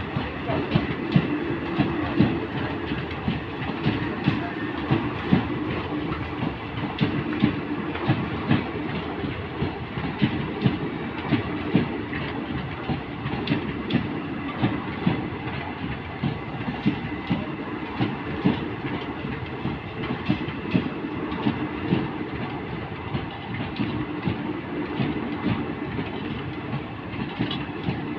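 Passenger train coaches rolling past, wheels clacking repeatedly over rail joints over a steady rumble.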